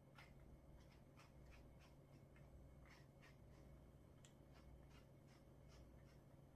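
Faint, soft scratchy strokes of a brush on a dog, about two or three a second at an uneven pace, over a low steady hum.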